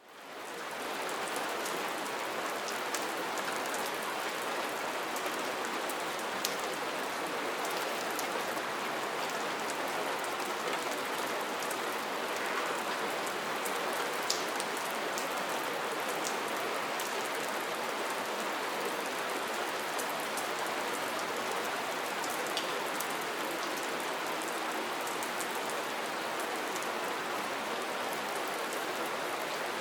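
Steady soft rain falling, an even hiss with scattered sharper drop ticks, fading in over the first second.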